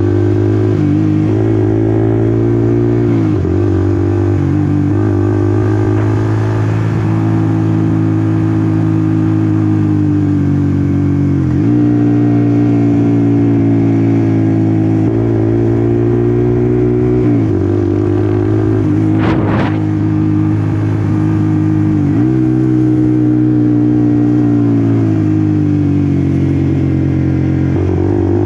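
Honda CBR150R's single-cylinder four-stroke engine running under way at steady revs, heard from on the bike. Its pitch dips briefly and recovers about five times, and a short burst of noise cuts across it about two-thirds of the way through.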